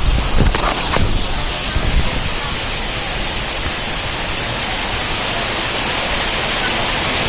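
Steady, loud rush of a violent storm: heavy rain and wind.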